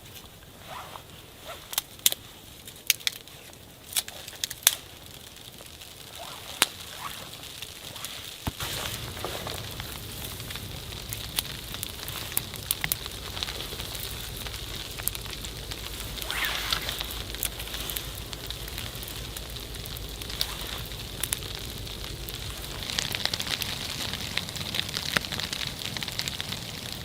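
Wood fire crackling, with sharp pops that are loudest and most frequent in the first five seconds. About eight seconds in, a steady low rumble and hiss sets in beneath the crackle.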